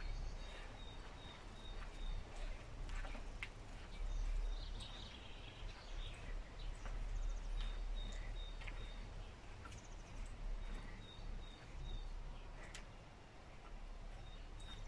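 Garden ambience: a small bird repeats a short high chirp in several runs over a low steady rumble, with a few soft knocks.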